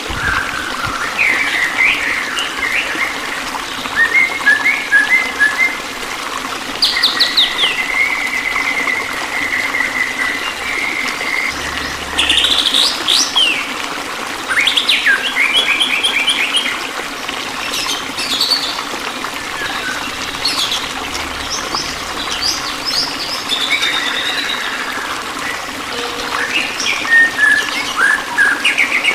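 Several songbirds chirping, trilling and whistling in short varied phrases over a steady rush of running water.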